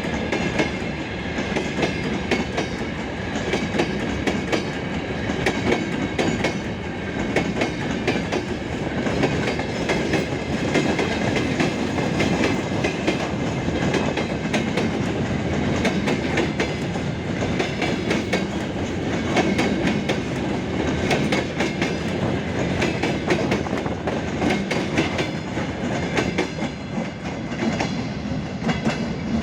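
Freight train wagons rolling past, their wheels clattering over the rail joints in a steady stream of quick clicks over a continuous rumble.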